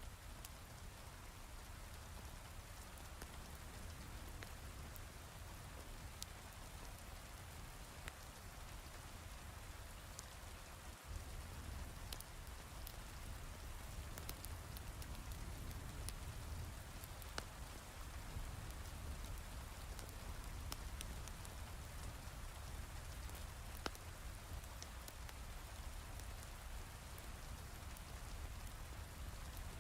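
Heavy rain falling steadily, with scattered sharp crackles from a wood fire in a fireplace; the rain gets a little louder about eleven seconds in.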